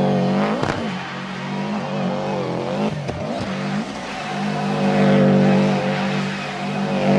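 Rally car engine running hard at high revs, its pitch dipping briefly about a second in and again around three seconds in before holding steady.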